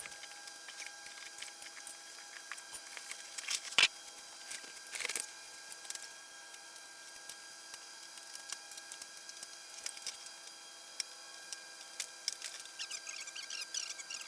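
Unpacking a boxed table saw: scattered light clicks and rustles of cardboard and packing being handled, with two louder sharp knocks about four and five seconds in and a crackling patch near the end.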